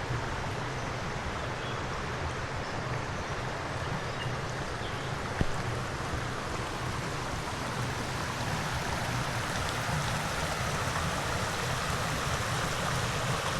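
Flowing water rushing steadily, with one brief knock a little over five seconds in.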